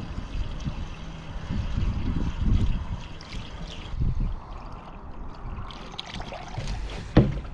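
Water pouring from a water can into a diesel engine's radiator filler, trickling and splashing as the radiator fills. A single sharp knock near the end.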